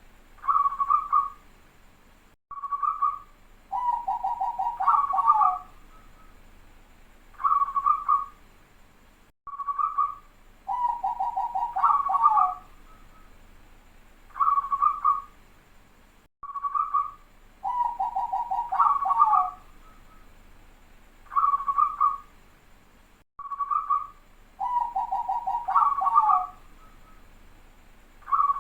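Zebra dove (perkutut) singing its cooing song again and again: a short coo, then a quick stuttering run of closely spaced coos ending on higher notes. The phrase repeats about every seven seconds.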